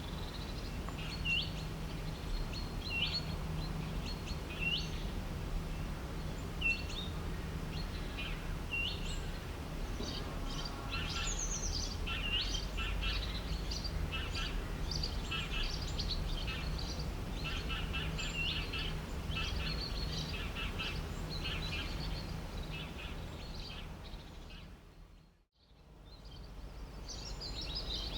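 Wild birds singing: one bird repeats a short call that hooks upward in pitch every second or two, joined about ten seconds in by a busier chorus of chirps, over a steady low rumble of background noise. The whole recording fades out and back in briefly near the end.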